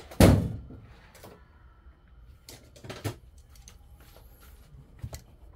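A sharp knock near the start, then scattered light clicks and taps: parts of an opened electric hot plate being handled and wrapped.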